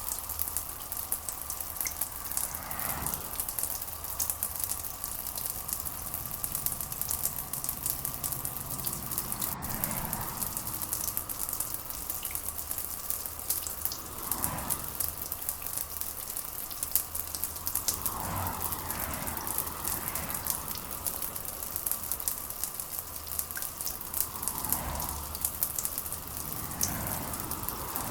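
Steady rain pattering, a dense crackle of drops. A few soft, muffled swells come and go every few seconds beneath it.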